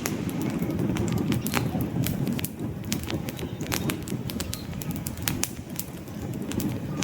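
Wood campfire burning, with frequent irregular crackles and sharp pops of the logs over a steady low rush of flame.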